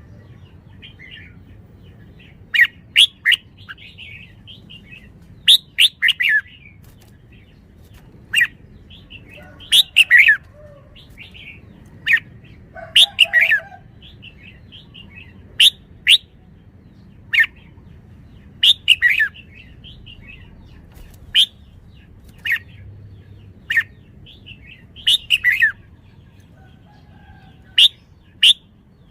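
Red-whiskered bulbul calling: short, sharp chirps with quick falling sweeps and brief warbled phrases, repeated every second or two with pauses between.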